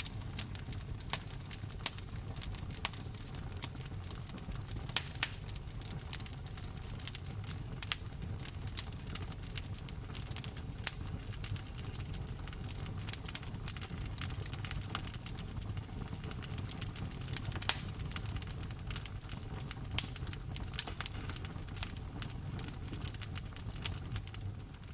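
Wood fire burning in a fireplace: a steady low rumble of flame with constant small crackles and pops of burning wood, and a few sharper, louder pops.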